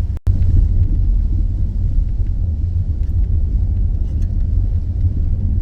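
Steady low rumble of road and engine noise inside a Dodge Grand Caravan minivan's cabin while driving. The sound cuts out for a split second just after the start.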